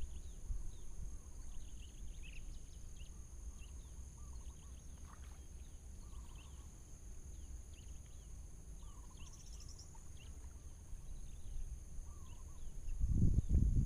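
Birds chirping: many faint, short calls scattered throughout over a steady low rumble. The rumble grows louder near the end.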